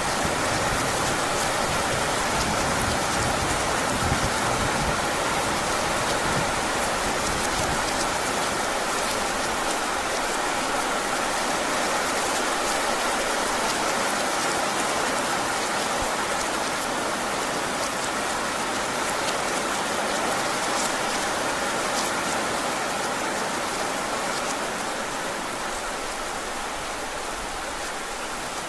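Heavy rain falling steadily, an even hiss with scattered drop ticks. A low rumble in the first several seconds dies away, and the rain eases off slightly near the end.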